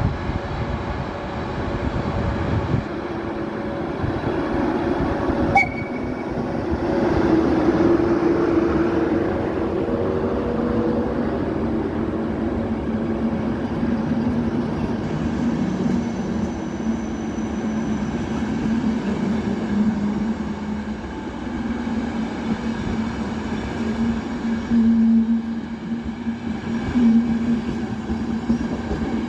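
Electric locomotive 151.006 pulling its passenger train away, with a steady hum and the rumble of wheels on the rails. There is one sharp clank about six seconds in.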